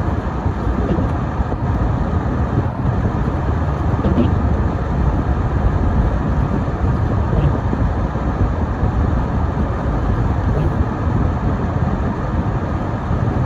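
Car driving on a snowy winter road: a steady low rumble of engine and tyres.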